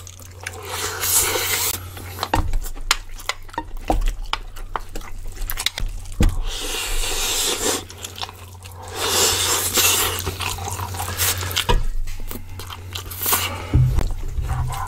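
Close-miked chewing of a mouthful of bibimbap, wet mouth sounds, with wooden spoons clicking and scraping against metal plates. A steady low hum runs underneath.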